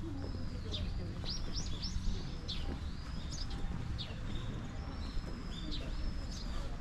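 Small birds calling again and again: a mix of drawn-out thin high whistles and quick chirps that sweep up or down, coming every second or so, over a steady low background rumble.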